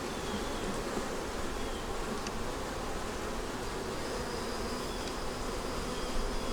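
Honey bees buzzing steadily in a dense, continuous hum around an opened hive.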